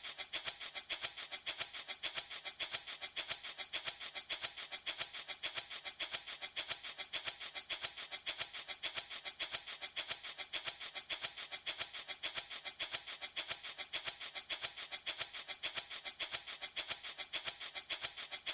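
Handmade baby rattle shaken in a steady, even rhythm, several crisp rattling strokes a second, like a small maraca.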